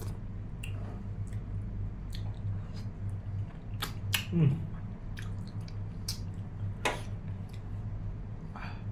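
Close-up mouth sounds of eating: chewing with scattered wet clicks and smacks of mutton and rice, over a steady low hum.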